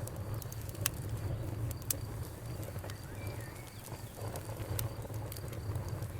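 Campfire burning with a steady low rumble and scattered sharp crackles and pops, a few of them louder, about a second apart early on and again near the end.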